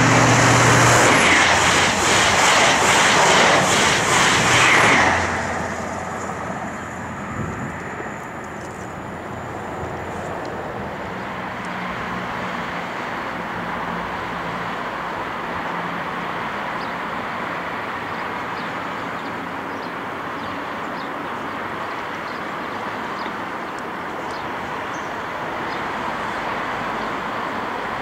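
High Speed Train with Class 43 power cars passing at speed, its engine and wheel noise loud for about five seconds before dropping away. A steady, much lower rumble follows, growing a little louder near the end as a second HST approaches.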